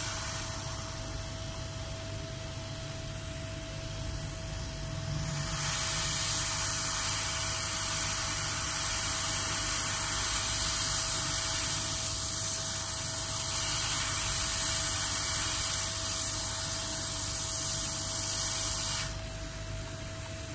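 Steady hiss of blowing air over a faint constant whine. The hiss grows much louder about five seconds in and cuts back sharply near the end.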